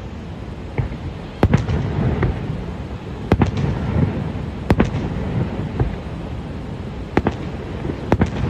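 Fireworks display bursting: a string of sharp bangs, roughly one a second and several in quick pairs, over a steady low rumble.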